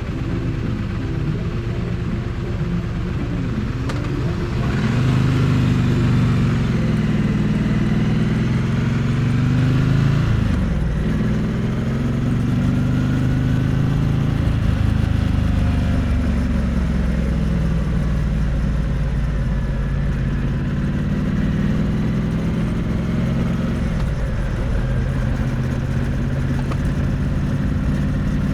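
Triumph Bonneville T100's parallel-twin engine and exhaust running under way, heard close to the exhaust. The revs climb from about five seconds in, dip sharply near ten seconds, then climb again and settle into steady running.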